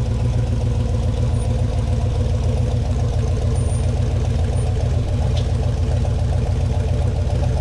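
Off-road 4x4's engine running steadily at low revs.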